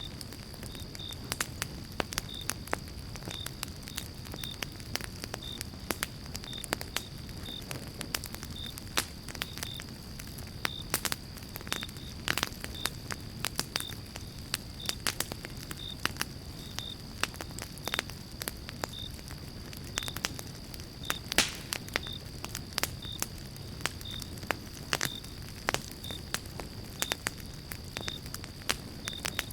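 Pine-log campfire crackling, with frequent irregular sharp pops over a steady low rush of the flames; the loudest pop comes a little past the middle.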